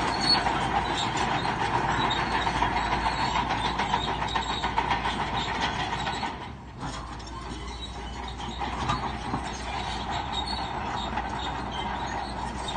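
Crawler bulldozer at work, its steel tracks clanking and squealing over the engine's running noise. The sound dips briefly about halfway through, then carries on.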